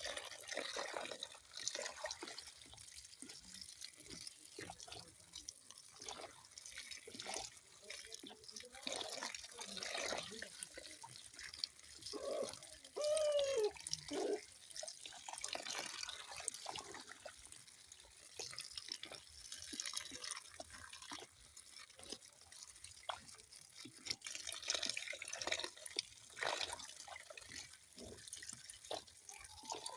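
Water dripping and splashing in irregular drops and plops over a soft hiss. About halfway through there is a brief wavering pitched sound, the loudest moment.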